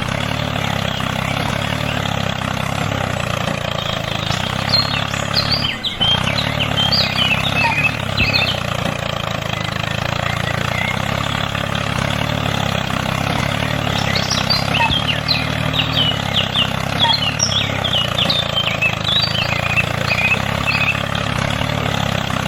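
A steady low engine drone, like an idling tractor, with birds chirping in short bursts over it. There is a brief dip about six seconds in.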